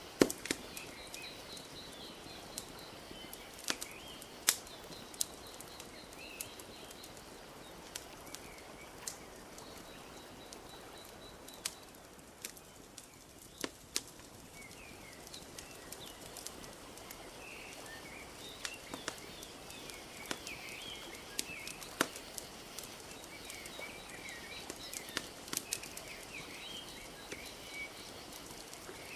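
Wood fire crackling, with sharp irregular pops over a soft steady wash of lake water lapping. Small birds chirp and trill throughout.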